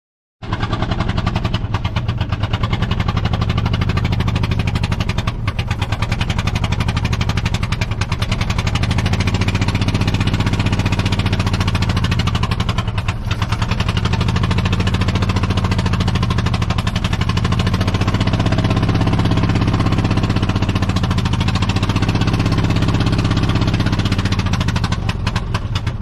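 Pony motor of an old Caterpillar D8 bulldozer making a loud, rapid mechanical chatter, with a pitch that rises and falls. It starts abruptly and dies away near the end.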